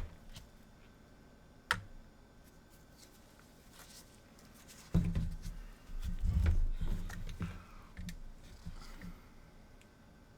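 Bench handling noises: a sharp click, then a run of low bumps and rustling as tools or the circuit board are moved about on the workbench.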